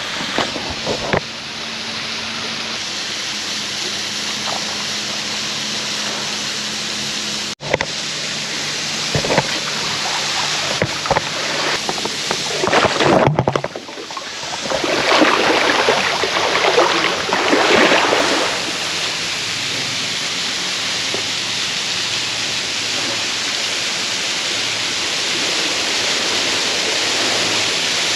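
Boat under way: the outboard motor runs with a steady rush of wind and water over it. The sound breaks off abruptly twice, and gets louder and rougher for a few seconds in the middle.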